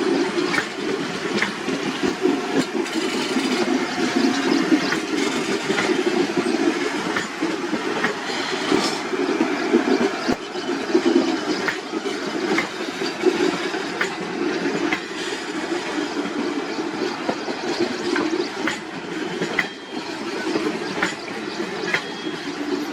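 Indian Railways passenger train running on track: a steady rumble with irregular sharp clicks of wheels passing over rail joints.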